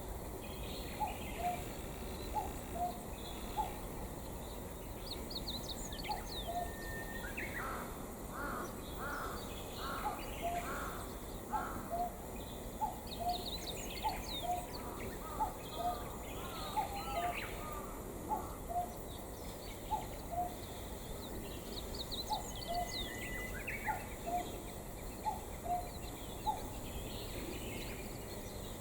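Birds calling over a steady background noise: a short low note repeating about once a second, scattered high chirps, and a run of five harsh caws around the middle.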